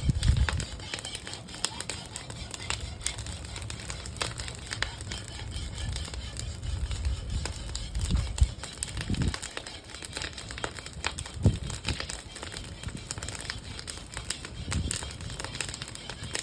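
Bonfire of burning wooden pallets crackling, with many small sharp pops over a low rumble that swells now and then.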